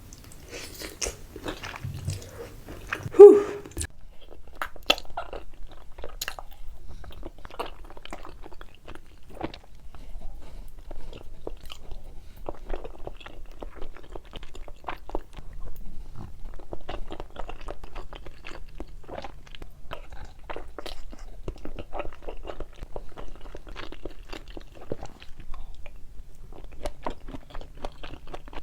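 Close-miked eating of cheesy food: a steady run of crunchy bites and chewing. A brief, loud pitched sound comes about three seconds in.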